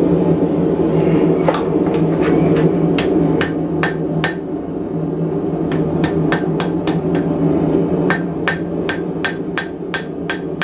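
Blacksmith's hammer striking hot steel on an anvil in runs of quick blows with short pauses, each blow ringing briefly; the smith is straightening a bent arm of a forged mason jar handle. A steady low rumble runs underneath.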